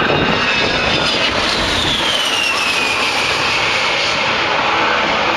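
A-10 Thunderbolt II's twin TF34 turbofan engines: a loud jet rush with a high whine that drops in pitch about a second and a half in as the jet flies past, then holds steady.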